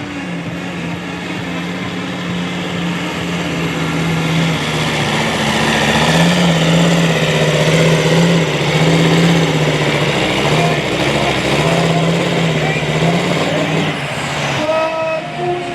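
Sport-class pulling truck's engine at full throttle, dragging the pulling sled down the track. The sound grows louder over the first several seconds and then holds, its note wavering up and down.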